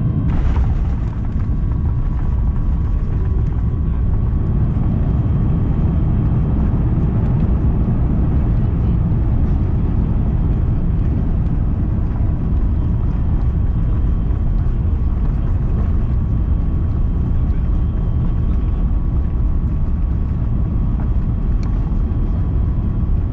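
Steady, loud low rumble of an Airbus A350's engines and airflow heard inside the cabin during landing, with a faint steady whine over it. A short burst of noise about half a second in.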